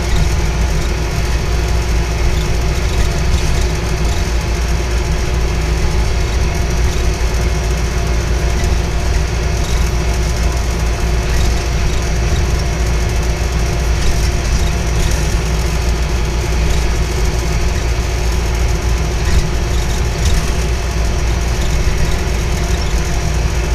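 Train running steadily: a continuous low rumble with a constant hum, and faint clicks scattered through it.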